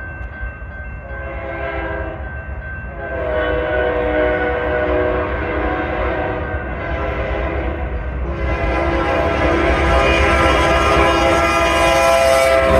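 Union Pacific freight locomotive sounding its horn for a road crossing in long blasts, growing louder as the train approaches.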